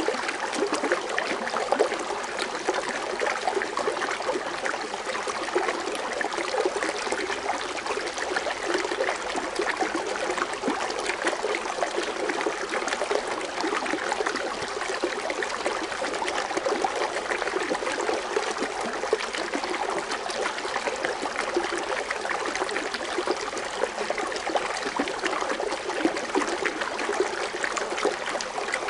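Foaming water fountain splashing steadily, a continuous run of falling water with many fine splashes and no change in strength.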